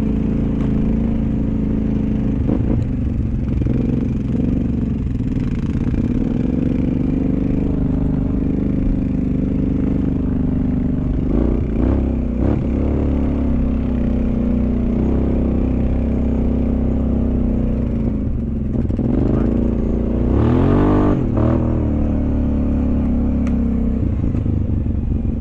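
Off-road vehicle engine running under way, its pitch rising and falling as the throttle is worked, with rattling from the machine over rough ground. The biggest burst of revs comes near the end.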